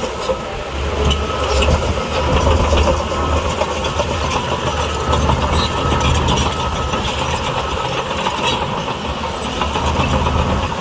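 Diesel engine of a heavy earthmoving machine running steadily with a deep rumble, with scattered metallic clanks over it.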